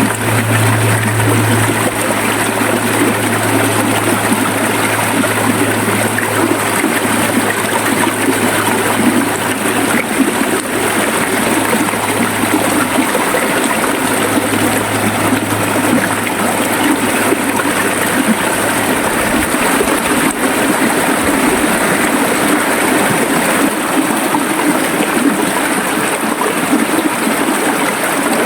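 River water flowing and rushing with a steady, dense splashing and gurgling. A low hum runs beneath it and fades out about two-thirds of the way through.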